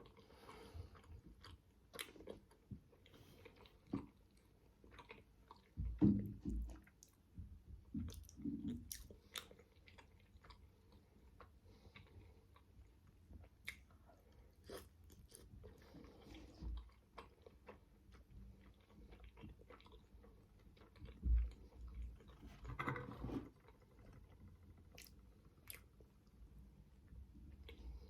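Close-miked chewing and biting of manti, steamed meat dumplings: irregular soft mouth clicks, with a few louder bites about six seconds in and again past twenty seconds.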